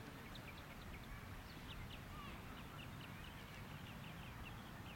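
Faint bird chirps, a quick run of short calls several a second, over a low rumble.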